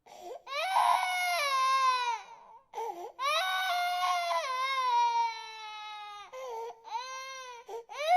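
Infant crying hard: long wailing cries that slide down in pitch, broken by short gasps for breath, with shorter cries in the last couple of seconds.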